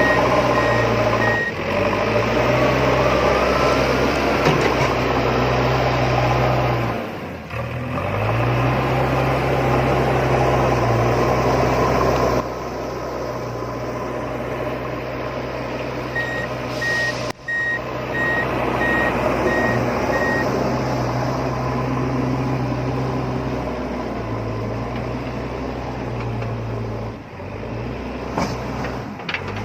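A steady vehicle engine-like running sound, with a reversing beeper pulsing twice: once near the start and again about halfway through. The sound breaks off briefly every few seconds and resumes.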